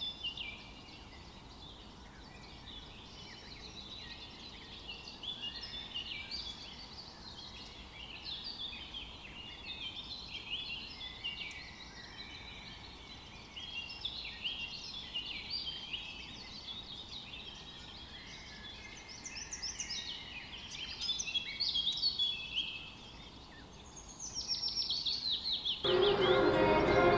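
Many small birds chirping in a busy chorus of short, quick calls. About a second before the end, music with bell-like tones comes in.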